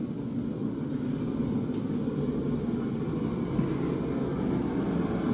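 A blacksmith's forge fire running with a steady low rushing noise, with a couple of faint ticks.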